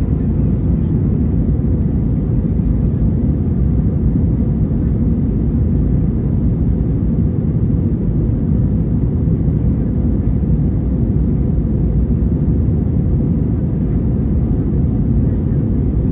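Airbus A321 airliner cabin noise: a steady, unchanging low rumble of the engines and airflow heard from an economy window seat.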